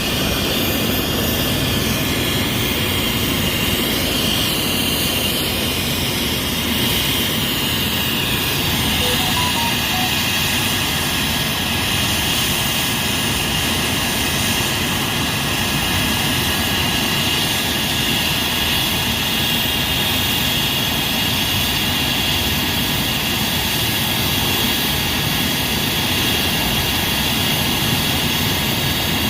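Helicopter turbine engine and rotor running steadily: a steady rushing noise with a high whine on top, the whine growing stronger about eight seconds in.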